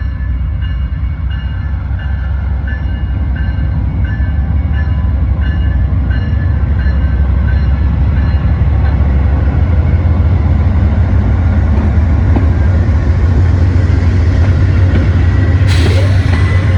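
Amtrak diesel locomotive pulling a passenger train out of the station, its heavy rumble growing steadily louder as it nears. A bell rings at an even pace, about one strike every two-thirds of a second, for the first half. A short hiss comes near the end.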